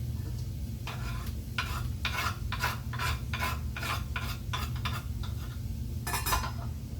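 Ripe tomato being mashed and stirred into water in a vessel for rasam: a quick run of rhythmic stirring strokes, about three a second, starting about a second in and stopping near five seconds, with one more stroke near the end.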